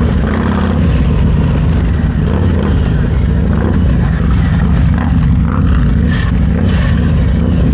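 Motorcycle engine running steadily close to the microphone, a low even rumble with no rise or fall in speed.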